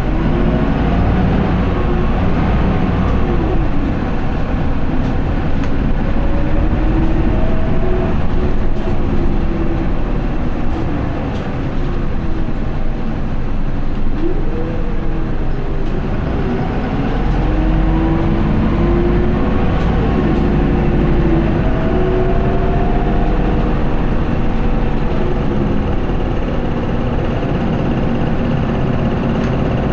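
Isuzu Erga city bus's diesel engine and drivetrain heard from on board while driving. The engine pitch climbs under acceleration and falls back several times, with a whining tone gliding up and down over the steady road noise.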